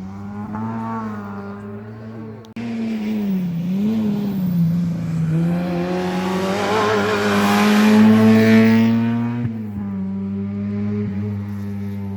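Historic rally car engine at full song on a special stage, revs rising and dipping through the gears. After a cut a little over two seconds in, it climbs steadily to its loudest as the car passes close about eight seconds in, then the pitch drops.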